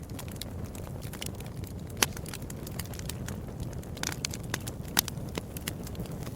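Fireplace fire crackling: a steady low rumble of flames with frequent sharp pops and snaps, the loudest about two seconds in and again about five seconds in.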